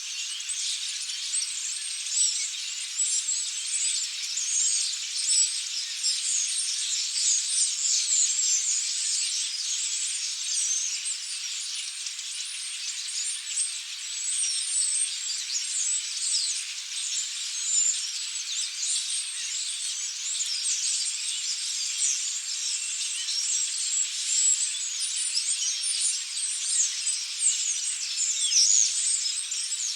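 A large flock of European starlings chattering, a dense, continuous mass of many overlapping high-pitched calls and whistles.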